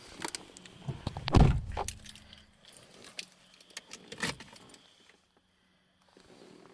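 Keys jangling with a run of clicks and knocks, and a heavy thump about a second and a half in, then a sharp knock near four seconds; the handling dies away near the end.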